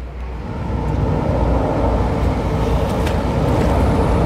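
Train rumbling over a railway bridge, the rumble building up over the first second and then running on steadily.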